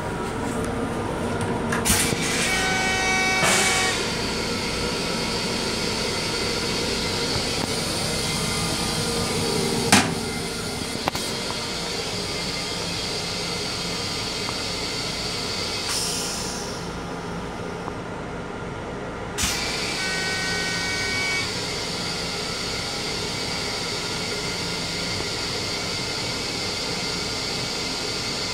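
Steady rumble and hiss of a Long Island Rail Road M7 electric train running, heard inside the car's small restroom. Two short pitched tones sound, one a couple of seconds in and one about two-thirds of the way through, and there is a single sharp knock about ten seconds in.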